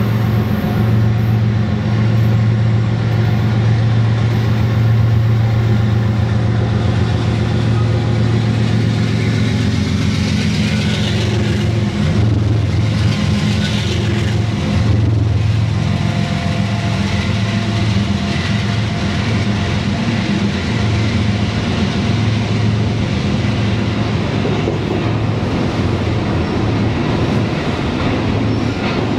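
Diesel freight train of autorack cars rolling past, with a steady low drone from the diesel engines under the noise of the wheels and cars.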